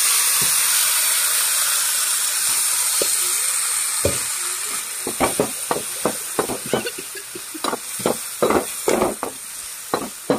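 Raw liver pieces tipped into hot oil in a metal pan, setting off a loud sizzle that starts suddenly and slowly dies down. From about halfway, a spatula scrapes and knocks against the pan several times a second as the liver is stirred.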